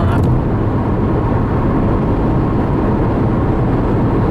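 Steady road and engine noise of a car cruising at highway speed, heard from inside the cabin as an even low rumble.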